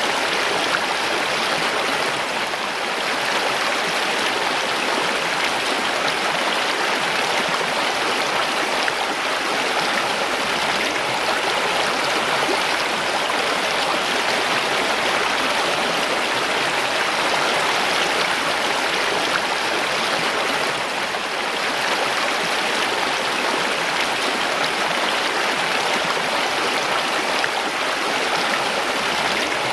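Mountain stream flowing in a steady, even rush of water.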